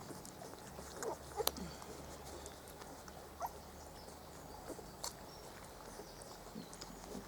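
Four-week-old Spanish Water Dog puppies giving scattered short, high squeaks and whimpers, with a sharp click about a second and a half in.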